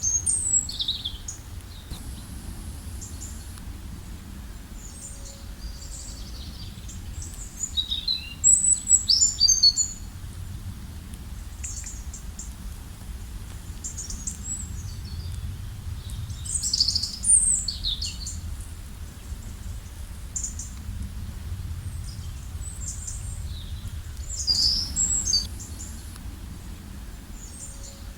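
Several forest songbirds singing, with quick chirps and trills that come in flurries a few seconds apart. A steady low rumble runs beneath them.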